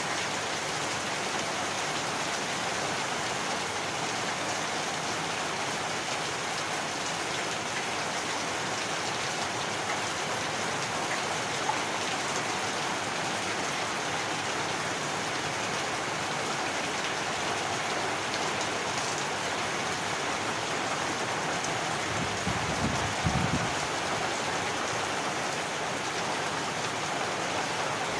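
Heavy rain falling steadily, an even hiss of many drops hitting a surface. About two-thirds of the way through, a brief low rumble swells up and fades within a second or two.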